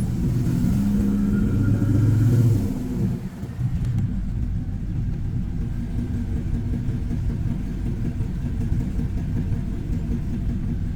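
Vehicle engine accelerating, its note rising for about three seconds before the driver lets off, then a steady low rumble of cruising.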